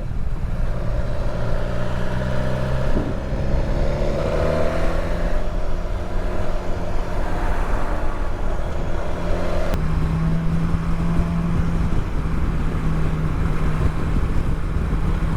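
Motorcycle engine running at road speed with wind and road noise while riding; the engine note changes about ten seconds in.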